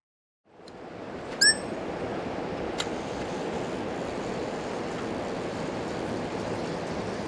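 Mountain stream water rushing steadily, fading in about half a second in. About a second and a half in, one brief loud high-pitched squeak stands out, and a faint click follows near three seconds.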